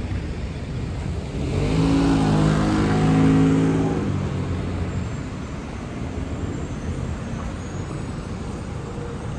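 A bus engine passing close by, building to its loudest about three seconds in and then fading, over steady road rumble and wind.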